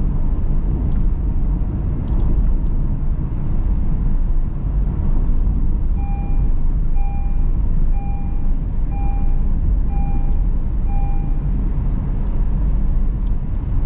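Car driving, with steady low road and engine rumble heard from inside. From about halfway in, six short electronic beeps sound about once a second, a car's warning chime.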